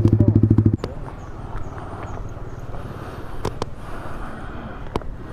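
Yamaha MT-15's 155 cc single-cylinder engine idling with a fast, even pulse, then switched off about a second in. Afterwards a steady outdoor background with a few sharp clicks.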